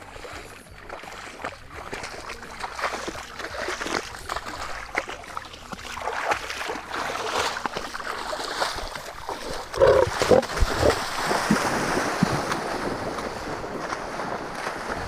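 Lions snarling in a sudden, loud scuffle about two-thirds of the way in, with water splashing around them: an aggressive outburst from a short-fused male lion.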